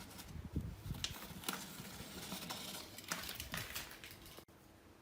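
Irregular sharp clicks and light taps of hand work, with a few low thumps about half a second to a second in; the sound cuts off abruptly shortly before the end.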